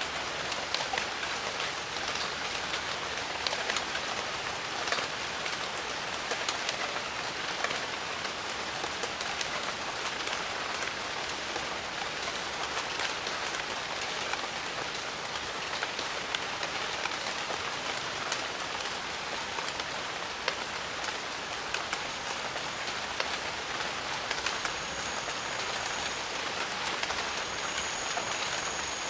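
Steady jungle rain: an even hiss of falling rain with many individual drop hits close by.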